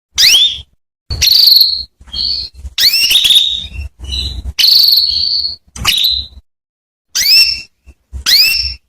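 Female canary calling: a string of short, sharp chirps that sweep upward in pitch, about ten in quick succession. A few of them are drawn out into a steady high whistle.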